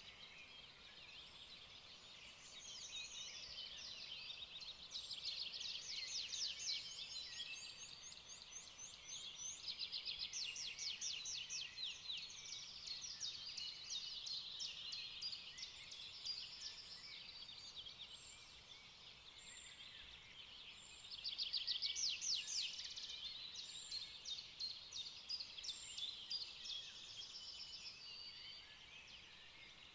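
Small birds chirping and twittering in a dense chorus of quick high chirps, swelling louder several times.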